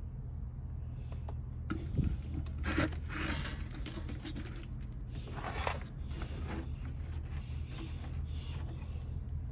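Objects being handled, with a few short bursts of rubbing and scraping over a steady low hum.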